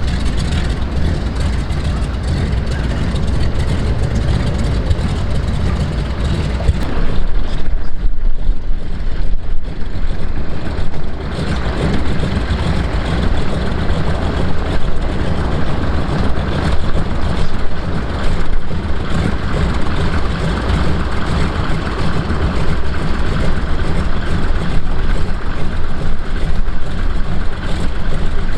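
De Havilland Beaver seaplane's piston engine running steadily with a deep, low drone, growing louder about seven seconds in and then holding loud.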